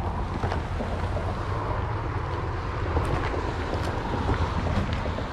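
Wind buffeting the microphone in an uneven low rumble over a steady hiss, with a few faint ticks.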